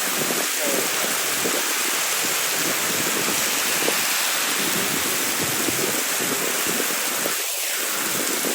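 Heavy rain falling steadily, a dense hiss of rain on the street, with a brief swell near the end.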